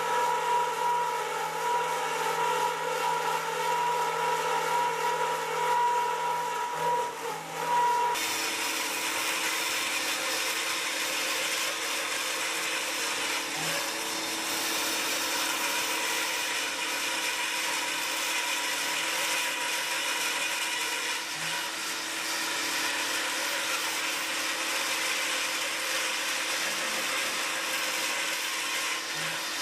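Automatic profile drilling and cutting machine running: a steady motor whine at first, changing abruptly about eight seconds in to a denser, hissier steady machining noise.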